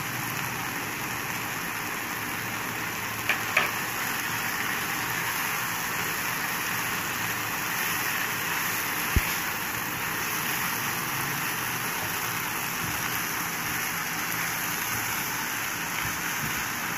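Chopped cabbage, capsicum and chicken filling sizzling steadily in a hot pan while a spatula stirs it. There are a couple of light knocks about three and a half seconds in and a sharper tap of the spatula on the pan about nine seconds in.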